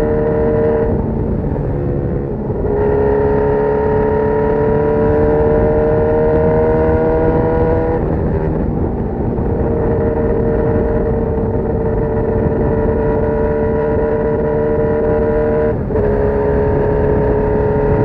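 Honda CB1000R inline-four engine running through a full GP Lougan RS Evolution aftermarket exhaust at high, sustained revs, its pitch creeping slowly upward as it pulls. The throttle eases off briefly about a second in, again around eight seconds, and for a moment near the end before the engine note picks up again.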